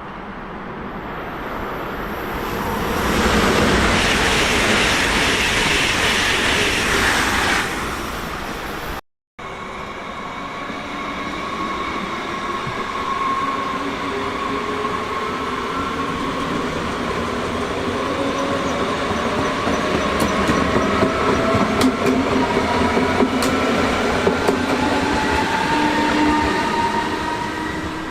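A train passes with a loud rush of wheel and air noise. After a cut, an electric train pulls away, its traction motors whining in several tones that rise slowly in pitch as it speeds up, with a few sharp clicks from the wheels over the rails.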